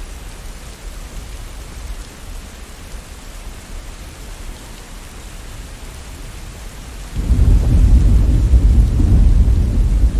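Steady rain hiss, then about seven seconds in a loud, deep roll of thunder breaks in and keeps rumbling.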